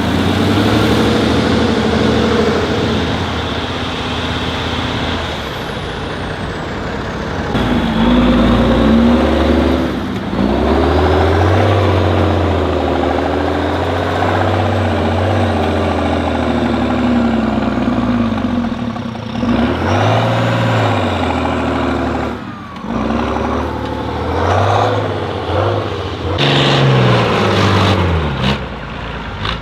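Heavy off-road trial trucks' diesel engines labouring and revving, the pitch rising and falling as they work over rough terrain. The sound breaks off abruptly several times as one stretch of running jumps to another.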